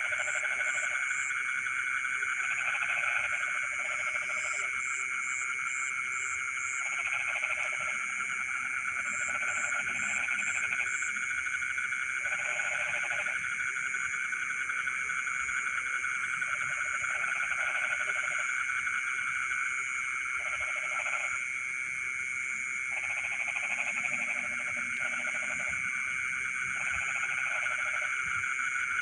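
Night chorus of frogs in a rice field: a dense, steady trilling, with lower croaking calls of about a second each coming in every two or three seconds. Short runs of rapid high-pitched clicks come in several times during the first ten seconds or so.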